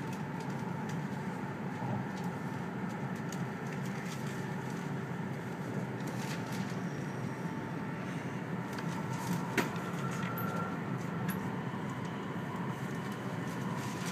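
Steady running noise inside the passenger cabin of an E2 series Shinkansen train: an even low rumble from the wheels and track with a faint steady tone, and a few sharp clicks, the sharpest about ten seconds in.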